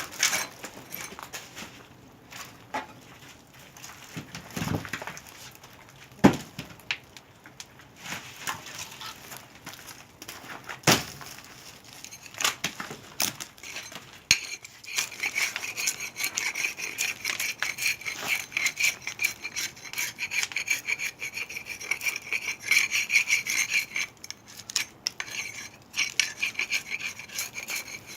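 Hand saw cutting firewood with steady back-and-forth rasping strokes, starting about halfway, after a few sharp knocks of wood on wood.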